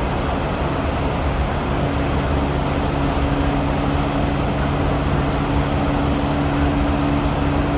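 Cabin noise inside a JR 115-series electric train running at steady speed: a constant rumble of wheels and running gear on the rails, with a steady low hum over it.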